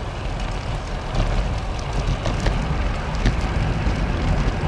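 Wind rushing over the microphone of a camera on a moving bicycle, with road noise: a steady low rumble with scattered small crackles and ticks.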